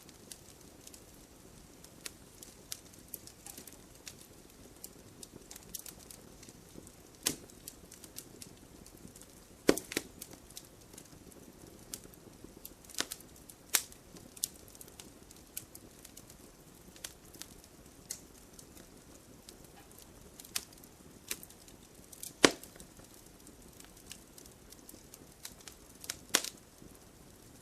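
Wood fire burning in a fireplace: a soft steady hiss with irregular crackles and sharp pops, a few much louder pops standing out, the loudest about two thirds of the way in.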